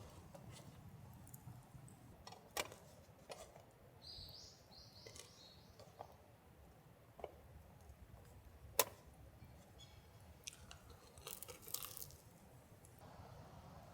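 Faint scattered sharp clicks and cracks, a few seconds apart, with a small cluster of them near the end. There is a brief high warbling chirp about four seconds in.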